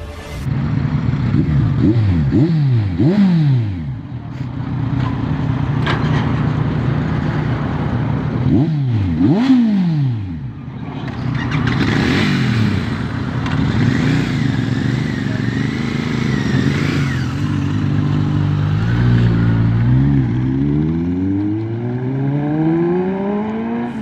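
Superbike engines revving, their pitch climbing and falling several times, with a long rising rev near the end.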